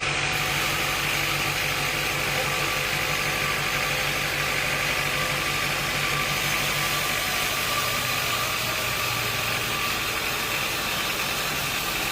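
Sawmill machinery running steadily without cutting, giving an even low hum and a steady high whine over a wash of noise.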